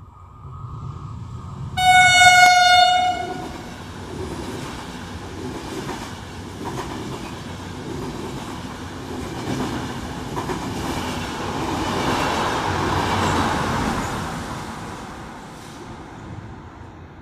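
A Trenitalia Intercity passenger train, with an E.464 electric locomotive at the rear, sounds one horn blast about a second and a half long as it comes through. Its coaches then run past with a rolling rumble of wheels on rail that swells and then fades as the train moves away.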